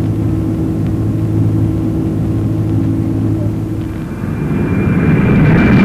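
Jet airliner engines: a steady low drone, then about four seconds in a louder rushing roar with a steady high whine.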